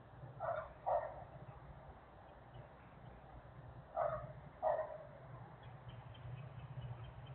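A dog barking: two pairs of short barks, the second pair about three seconds after the first, over a steady low hum.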